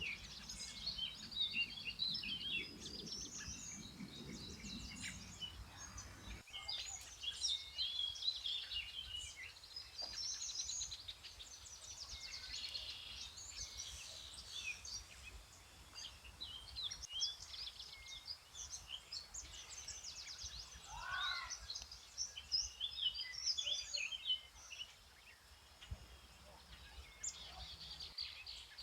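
Several songbirds singing and calling at once, a dense chorus of short chirps and trills, with one phrase stepping down in pitch about two-thirds of the way through. A low hum under the birds stops suddenly about six seconds in.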